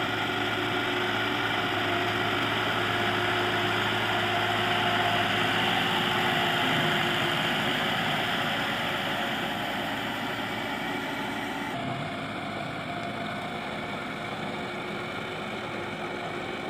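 Massey Ferguson 375 tractor's four-cylinder diesel engine running steadily under load, pulling an 11-tine cultivator through mud. Its tone shifts slightly about twelve seconds in.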